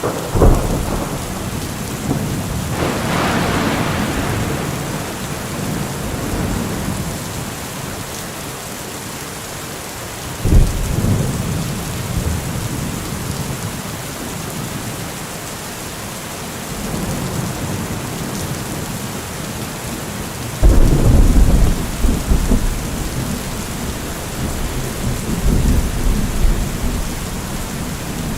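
Steady rain with thunder: a sharp clap right at the start, then rolling rumbles about three seconds in, again about ten seconds in, and a heavier crack and long rumble from about twenty seconds in.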